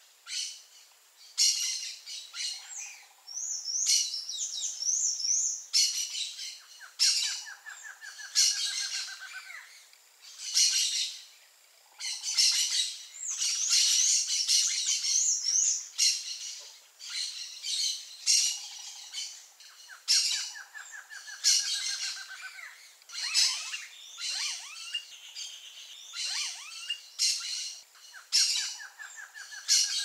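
Wild birds calling: short noisy calls repeated throughout, with two runs of high, rapidly wavering notes and three low, rapid trills.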